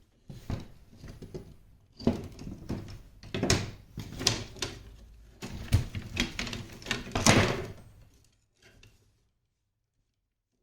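Wooden parasol sticks knocking and clacking together as they are handled and fitted around the parasol head, in a run of irregular knocks that stops about two seconds before the end.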